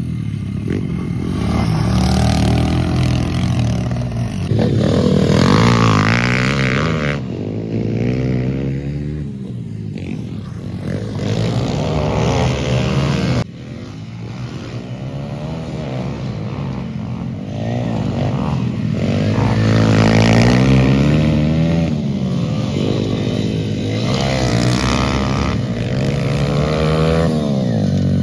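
A vehicle engine running under load, its pitch repeatedly climbing and then falling as it accelerates and shifts gear. The sound cuts abruptly about halfway through and carries on at a slightly lower level.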